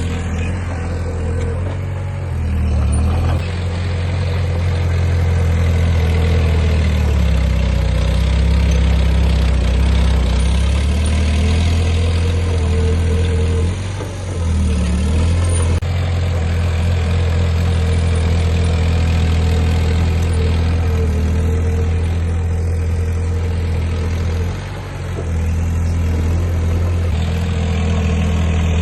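Heavy diesel engine of earthmoving machinery running steadily under load, its pitch shifting now and then and easing off briefly a few times.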